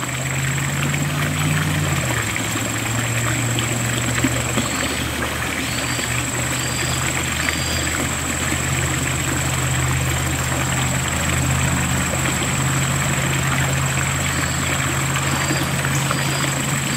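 An engine running steadily, its pitch dropping about two seconds in, under an even hiss. A thin high tone holds throughout, and a few short high chirps come through.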